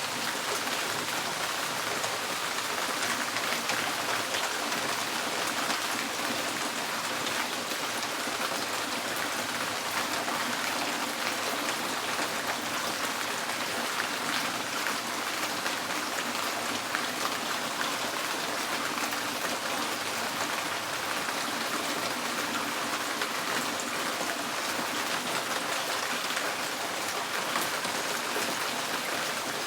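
Steady rain pattering on a tin porch roof, a dense, even patter of many drops on the metal.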